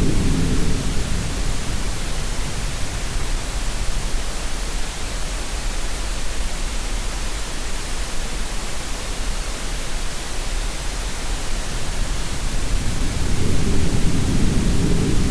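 Steady green noise, an even hiss, mixed with the sound of sea waves. A low wave surge fades out in the first second or two and builds again about 13 seconds in.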